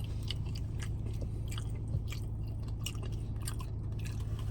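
Close-up chewing of tortilla-chip nachos: irregular crisp crunches of the chips, over a steady low hum.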